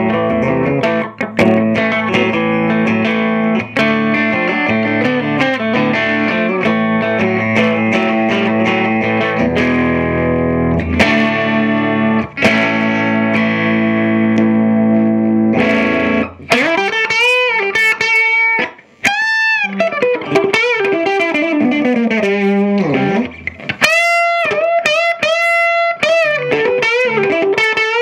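Electric guitar on a Fender Stratocaster's bridge humbucker, played through the Earthquake Engineering Atlas15, a 15-watt cathode-biased EL84 tube amp, with an overdriven crunch. Chords are strummed for a little over half the time, then it turns to single-note lead lines with string bends and vibrato.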